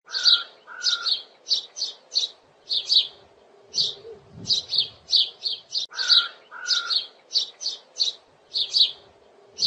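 Birds chirping in rapid clusters of short high notes, with two lower whistled notes at the start. The same stretch of birdsong repeats about six seconds later.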